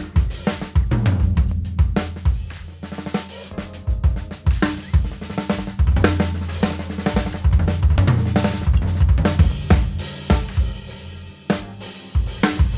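Drum kit played continuously: snare, bass drum, hi-hat and cymbals over low ringing drums. Air from an air compressor is being blown into the drum shells through their vent holes to change how they sound.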